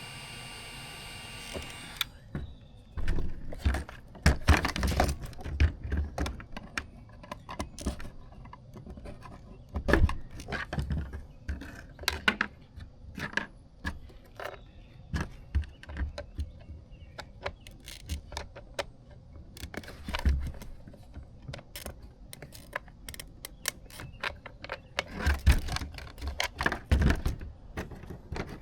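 A heat gun's fan motor running steadily, switched off sharply about two seconds in. Then irregular clicks, knocks and light rattles of hard plastic parts and tools being handled on a bench.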